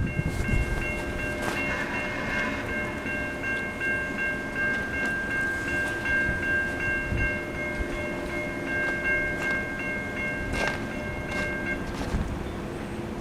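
Freight locomotive air horn sounding one long, steady multi-note chord for about eleven seconds, then cutting off, over the rumble of the passing train, with a few sharp knocks from the wheels and cars.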